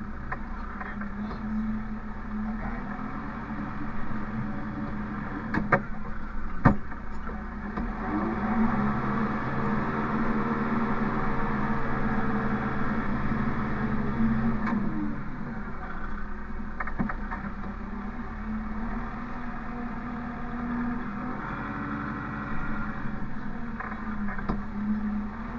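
Diesel engine of the loader working the bale squeeze, running steadily and revving up for about six seconds in the middle before settling back, with a couple of sharp knocks shortly before the rev.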